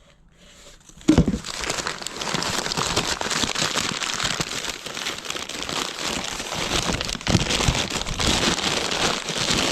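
Plastic and paper wrappings being handled and rummaged through, a dense crackling and crinkling that starts suddenly with a thump about a second in.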